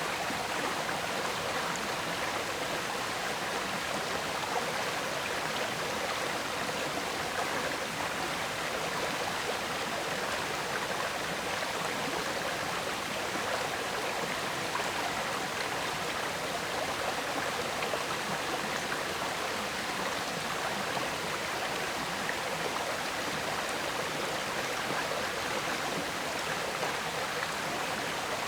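River water flowing and gurgling steadily, an even rushing sound strongest in the middle and upper range.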